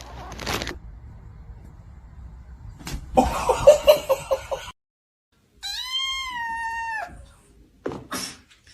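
A cat gives one long, drawn-out meow that rises a little at the start and drops away at the end. Before it comes a louder stretch of short mixed sounds.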